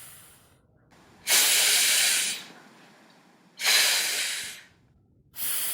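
A woman voicing the phonics sound for the letter F, an unvoiced hissing "fff" breathed out between teeth and lip. It comes three times after a fading first one, the first of the three about a second long and the last short.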